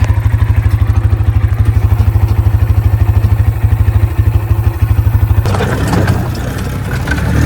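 A vehicle engine running with a fast, even low pulsing. About five and a half seconds in, the pulsing stops abruptly and gives way to a rougher, noisier engine sound.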